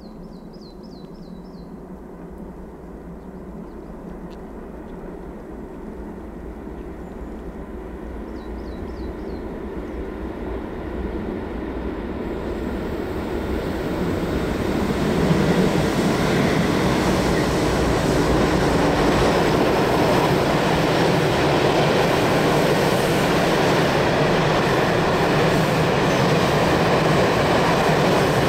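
A train on the Semmering railway approaching, its rumble and wheel noise growing steadily louder for about fifteen seconds and then running loud and even as it passes close by. A small bird chirps briefly at the start and again a few seconds later.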